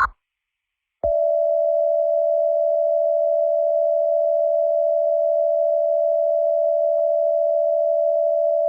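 Emergency Alert System attention tone: one steady, unbroken mid-pitched tone that starts about a second in after a short silence and holds for about eight seconds, sounding before a spoken alert.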